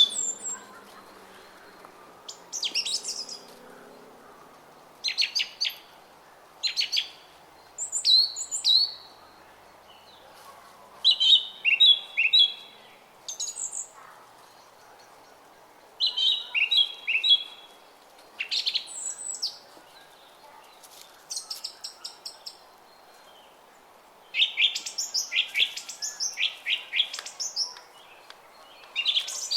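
Songbirds chirping and singing in short, high-pitched phrases every one to three seconds, over the faint steady murmur of a brook.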